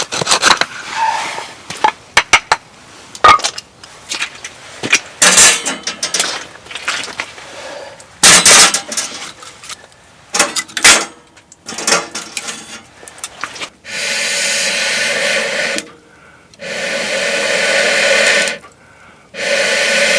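Firewood being handled and broken: a run of sharp knocks and cracks, then three long, even rasping strokes of about two seconds each near the end.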